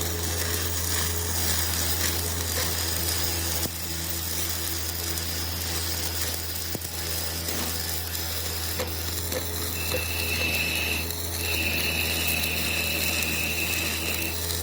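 A workshop machine running with a steady low hum and a crackling noise. About ten seconds in, a high steady whine joins; it breaks off briefly and then resumes.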